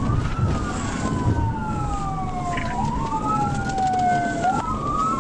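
Police car siren on wail: each cycle rises quickly, then falls slowly, repeating about every two and a half seconds over steady road and engine noise.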